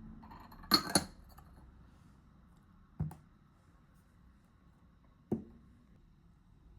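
Light clinks and knocks of kitchenware being handled: a sharp double clink about a second in, then single knocks about three and five seconds in.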